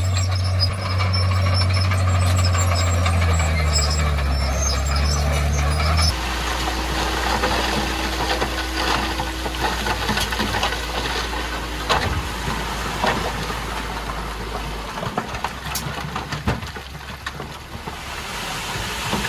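Heavy earthmoving machine's diesel engine running steadily, its pitch shifting a little before the sound changes abruptly about six seconds in to a lower, quieter engine hum with scattered metallic clanks.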